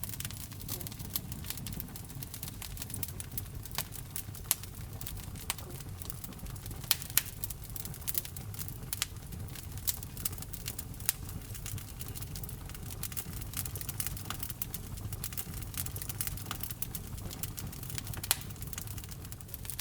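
Wood fire burning in a fireplace: a steady low rumble of flame with irregular sharp crackles and pops, several louder snaps among them.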